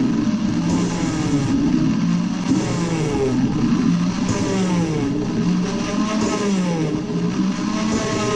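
Electric drill spinning a new valve against its seat with coarse grinding compound, lapping the valve in. The motor's pitch rises and falls over and over, over a gritty grinding noise.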